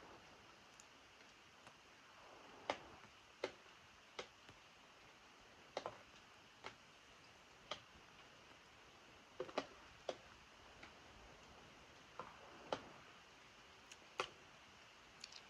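Rainwater dripping onto a hard surface: sharp single ticks at irregular spacing, about one every second or so and sometimes two close together, over a faint steady hiss of rain.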